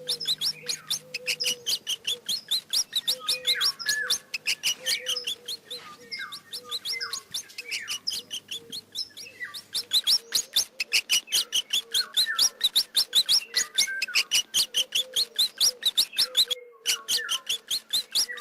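Mice squeaking: rapid, high-pitched chirping squeaks, several a second, with a brief break near the end.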